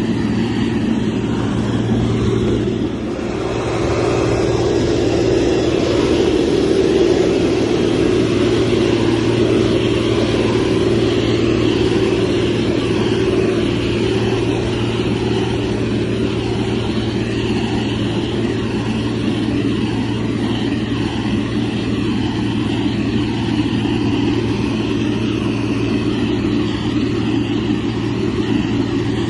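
Motor grader's diesel engine running steadily, dipping briefly about three seconds in before picking up again.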